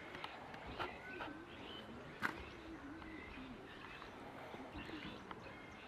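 Faint bird calls: a low, wavering cooing repeated again and again, with short, high chirps and a few light clicks.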